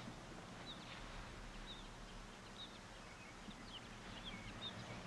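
Faint, scattered chirps of small birds, many short quick notes, over a steady low electrical hum.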